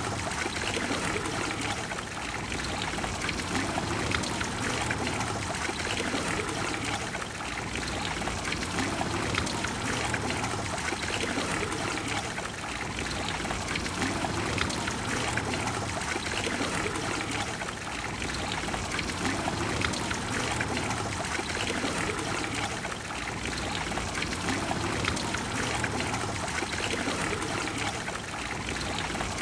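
Water of the Trevi Fountain pouring and splashing into its basin: a steady rushing that swells and eases gently every few seconds.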